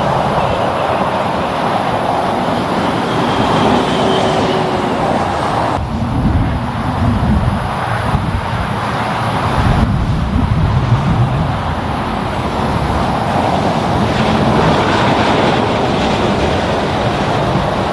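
Highway traffic: the steady noise of passing vehicles' tyres and engines, with a heavier low rumble of a big vehicle going by from about six to eleven seconds in.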